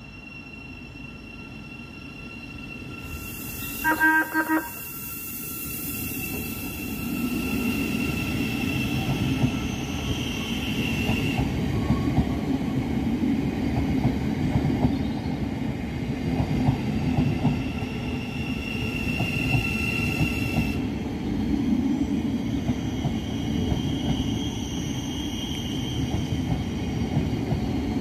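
Thameslink Class 700 electric multiple unit running in along the platform: a short horn blast about four seconds in, then the rumble of its wheels on the rails builds and runs on, with a high squeal coming and going.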